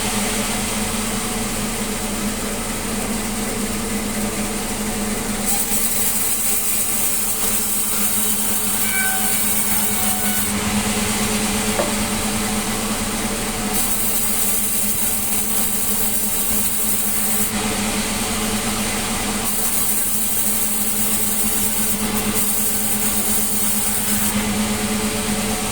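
Sawmill saw running steadily with a constant hum while sawing melinjo wood into boards. A high hiss comes and goes in stretches of a few seconds.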